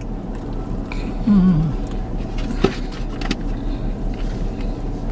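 Steady low hum of a parked car's idling engine, heard inside the cabin, with a brief voice-like murmur about a second in and a single sharp click near the middle.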